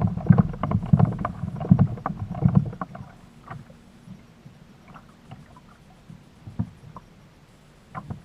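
Fishing kayak on the water: a run of knocks and splashes against the hull, closely packed and loud for the first three seconds, then fewer and fainter.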